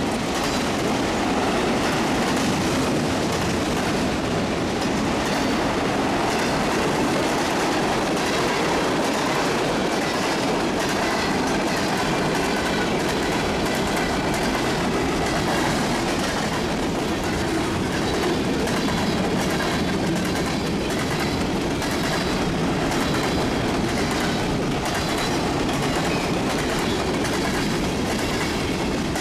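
Freight cars rolling past on steel wheels: a steady, loud rumble of wheels on rail with repeated clacks over the rail joints, and a faint high wheel squeal from about halfway through.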